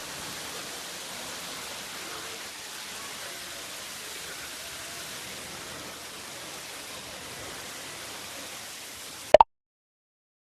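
Steady, even hiss of ambient noise that cuts off with a sharp click about nine seconds in.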